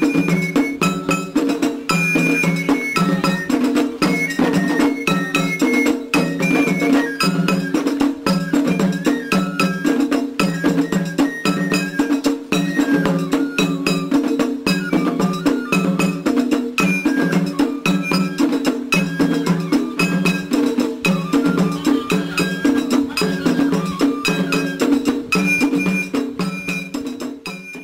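Japanese festival music (matsuri-bayashi): a metal hand gong struck in a fast, steady rhythm over pulsing drums, with a high melody line on top. It stops abruptly at the end.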